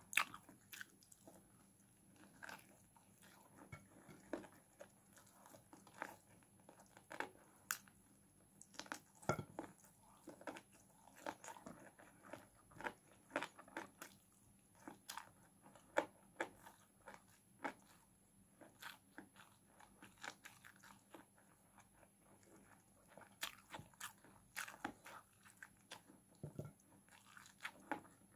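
Close-up eating sounds: a person chewing chicken and rice eaten by hand, with many irregular wet mouth clicks and smacks.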